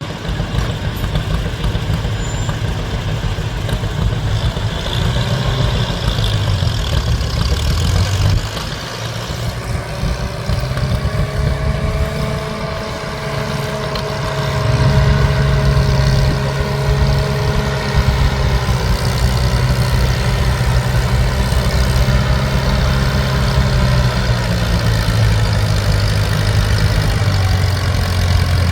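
Antique tractor engine running steadily, growing louder about halfway through. A faint steady whine rides over it for several seconds in the middle.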